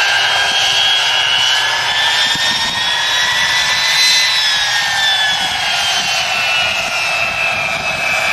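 Pratt & Whitney JT3D turbofan engines of a four-engine jet airliner running loud, a dense roar with a whine on top. The whine rises a little in pitch and peaks about four seconds in, then falls steadily as the jet passes.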